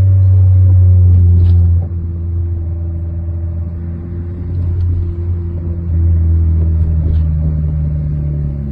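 Seat Leon FR's 2.0 TFSI four-cylinder turbo engine running at a steady speed with a low, even drone. It gets quieter about two seconds in and louder again about six seconds in.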